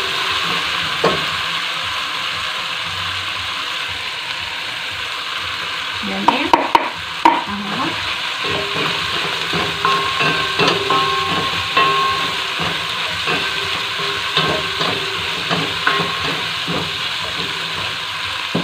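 Beef and vegetables frying in oil in a non-stick wok, sizzling steadily while a wooden spoon stirs and scrapes through them. A quick run of sharp knocks comes about six to seven seconds in.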